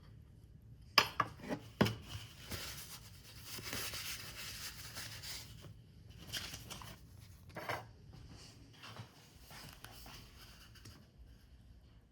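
A few sharp taps about a second in, then paper being rubbed, scraped and handled in a small room, with a couple of shorter scrapes later.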